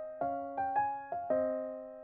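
Background music: a gentle piano or electric-piano melody of single notes, a few a second, each struck and fading away.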